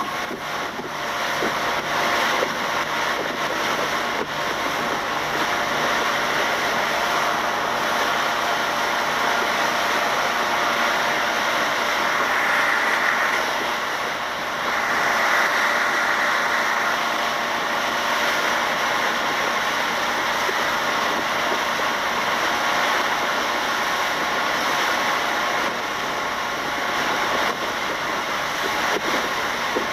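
Small fishing speedboat's engine running steadily under a rush of wind and water; the sound dips briefly about fourteen seconds in.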